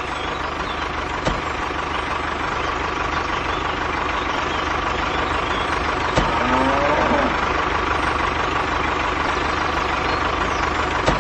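Vehicle engine running steadily with a low throb, with a few sharp clicks over it.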